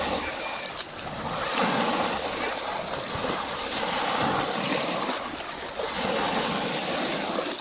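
Lake water, with waves washing in and rising and falling in loudness every second or two.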